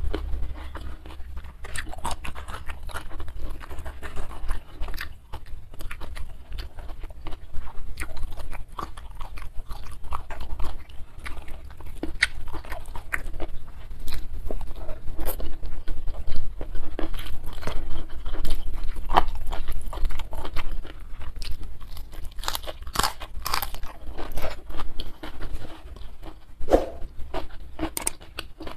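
Close-miked chewing and crunching of a hand-fed mouthful of rice with stir-fried prawns, leunca and salted fish, full of irregular wet mouth clicks and crunches.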